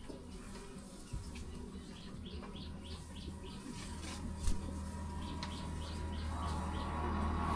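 A small bird chirping in a quick series of short, evenly spaced notes, about three a second, over a low steady hum that grows louder near the end.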